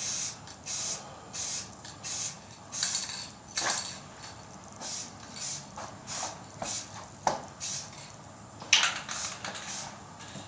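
Aerosol spray-paint can hissing in a string of short bursts, roughly one to two a second, laying a light mist coat, with a few sharp clicks, the loudest near the end.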